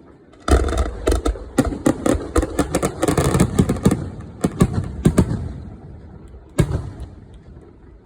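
Aerial fireworks bursting in a rapid barrage. The sound starts suddenly about half a second in, then many bangs and crackles follow close together, densest around the middle. It thins out, and a single loud bang comes near the end.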